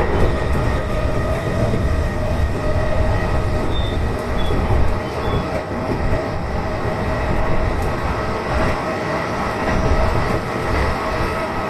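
Negishi Line electric commuter train running along the track, heard from the front of the train: a steady rumble of wheels on rail with a faint steady whine.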